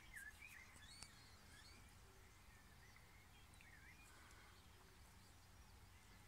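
Faint bird chirps, short calls rising and falling in pitch, scattered over quiet outdoor background noise.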